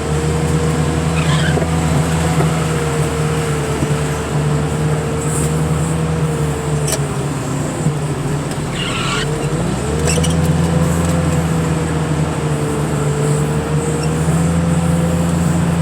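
Car crusher's engine and hydraulics running steadily, with a whine that sags in pitch about eight seconds in and climbs back about two seconds later. Steady rain hiss underneath.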